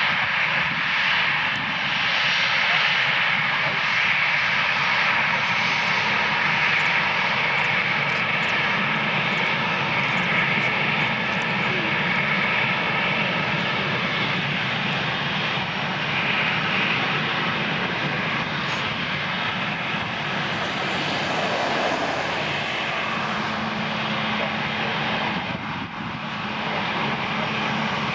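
Jet engines of an Airbus A320-200 airliner running steadily with a loud, even noise and faint steady tones, dipping briefly near the end.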